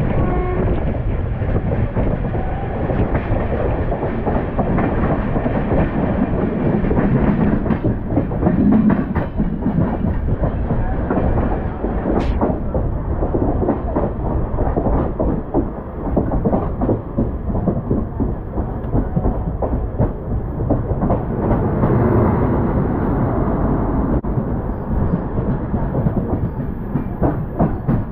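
Express train's wheels running on the track, a steady rumble with constant clattering over the rail joints. A single sharp click about twelve seconds in.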